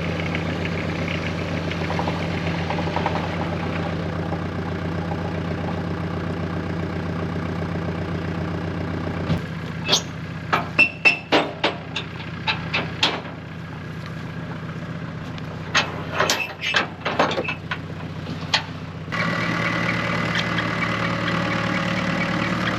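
Truck engine idling steadily. Midway the hum drops back and two runs of sharp knocks and clanks come through, before the idling comes back stronger near the end.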